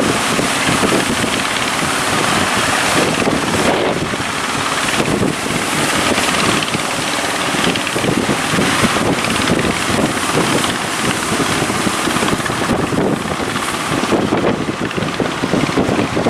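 Wind buffeting the microphone over breaking surf, with a boat engine running underneath.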